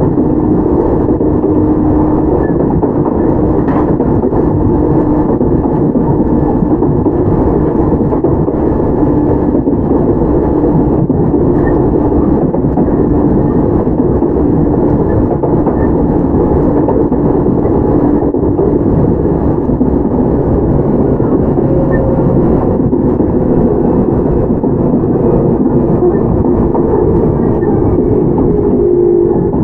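Onboard running sound of a Toyama Chiho Railway 17480-series electric train (ex-Tokyu 8090, field-chopper control): steady rumble of wheels on rail and traction equipment with a continuous tone, and in the last several seconds a tone slowly falling in pitch.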